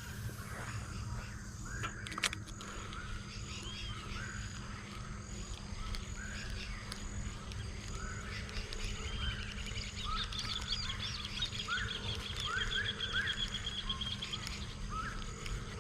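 Wild animal calls: many short chirping calls come one after another, and a fast trill is heard from about nine to fourteen seconds in. A faint high note repeats at an even pace throughout, over a steady low background hum.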